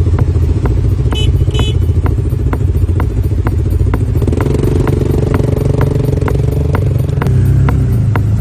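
ATV engine running steadily, with a second engine note joining about halfway through. Sharp clicks repeat about twice a second over it.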